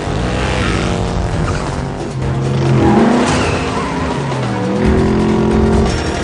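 Race cars' engines revving hard with tyres skidding and squealing, as in a film car chase, with music underneath.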